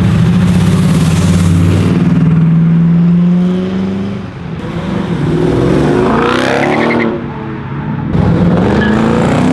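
Loud car engine running hard, its note held steady for about three seconds, then revving up in rising sweeps in the middle and climbing again near the end as cars accelerate away.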